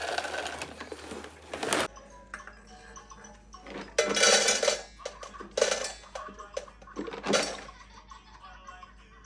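Dry pet food kibble rattling and clattering as a handmade wooden dispenser drops it, in three short bursts.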